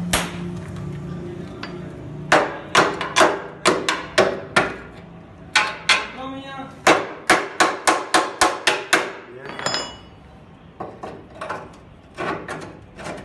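Hammer blows on metal, in runs: about six strikes, then after a short pause about ten faster ones, then a few lighter taps near the end, each with a short ring. An engine hum runs under the first two seconds.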